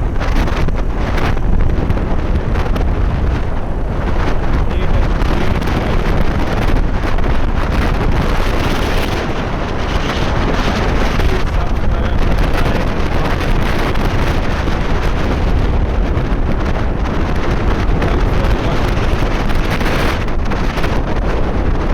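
Wind rumbling steadily on the microphone of a moving bike, loud and unbroken, with no clear engine note.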